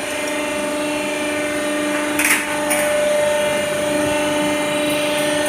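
Electric power tool's motor running steadily with a constant hum, with two short noisy contact bursts a little after two seconds in.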